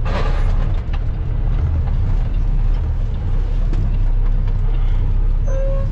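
A vehicle being driven, heard from inside the cab: a steady low engine and road rumble. A brief beep sounds near the end.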